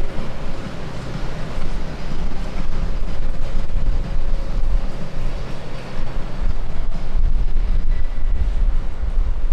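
Jet airliner passing close on landing or takeoff, its engines giving a loud, steady rumble that builds over the first second. Wind buffets the microphone throughout.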